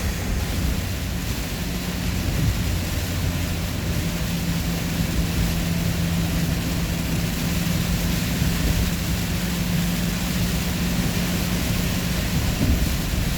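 Steady road and engine noise inside a moving vehicle's cabin, with a constant low engine drone under the rush of tyres and wind.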